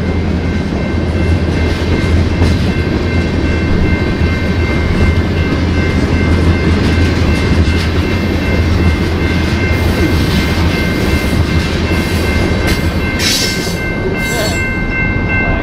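A freight train of tank cars rolling past close by: a steady low rumble and rattle of wheels on rail. Near the end, as the last cars go by, a few clicks and a steady high ringing tone stand out.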